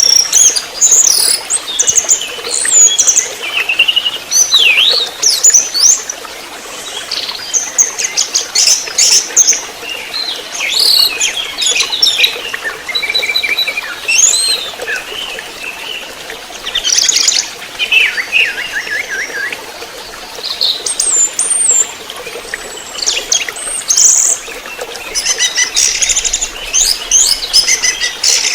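Young orange-headed thrush singing a long, rapid, varied song of whistles, fast trills and chirps, with hardly a pause.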